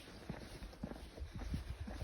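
Footsteps on a hiking trail: a string of soft, irregular thuds.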